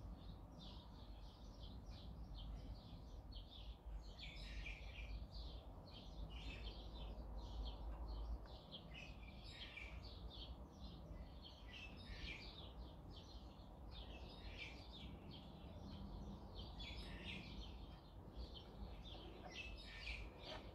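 Faint birds chirping in quick repeated bursts over a low, steady hum.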